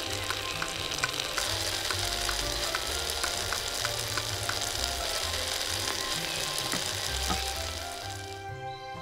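Food sizzling in hot oil in a miniature pan, a steady frying hiss that dies away near the end.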